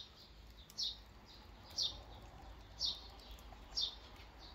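A bird calling over and over: a short, high note falling in pitch, repeated evenly about once a second, five times.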